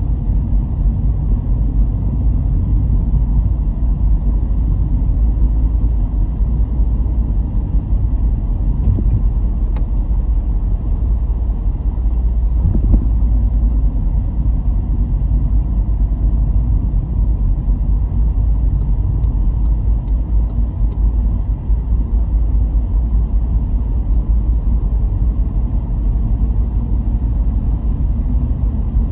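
Car driving along a road: a steady low rumble of tyres and engine, with a brief louder swell near the middle.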